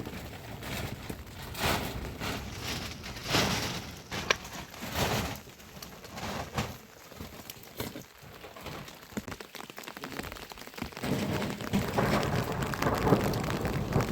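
Rain falling, with irregular louder swells of noise and a few short knocks over it.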